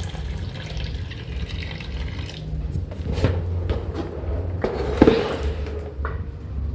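Kitchen tap running into a sink, with several sharp knocks in the second half, the loudest about five seconds in.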